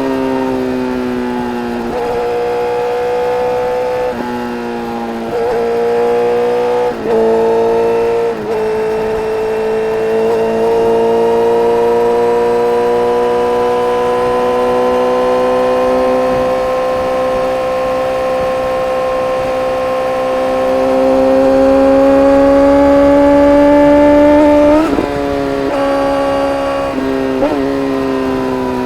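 Inline-four engine of a 2010 Honda CBR1000RR Fireblade breathing through an Arrow Indy exhaust with the dB killer removed, heard on the move. Engine speed rises and falls through several gear changes, with brief throttle cuts on the shifts, then a long steady pull. About 25 seconds in the throttle closes and a few quick changes in engine speed follow.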